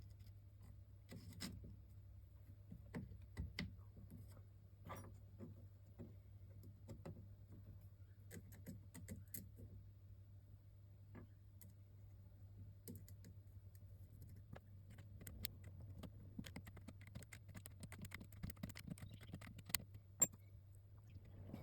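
Faint, scattered clicks and light taps of small metal and plastic parts and a tool being handled while refitting an RC truck's rear springs and suspension pins, over a steady low hum. The clicking grows busier in the second half, with one sharper click near the end.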